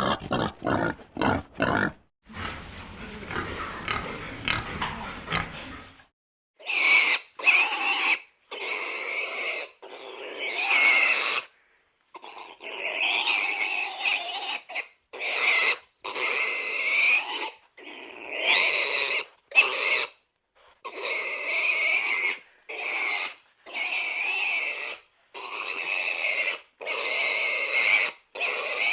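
Pig vocalizing: quick short grunts at first, about four a second, then a few seconds of softer, noisier grunting, then from about six seconds in a long series of loud, high-pitched squeals with brief pauses between them.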